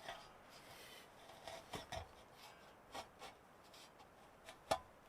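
Light handling noise of wood: a few scattered soft knocks and clicks with some rubbing, the sharpest knock near the end.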